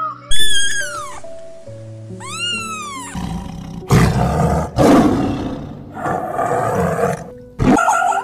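An Indian peacock gives two loud calls that rise and then fall. From about three seconds in, a tiger growls and roars in several rough bursts. Soft background music with long held notes plays underneath.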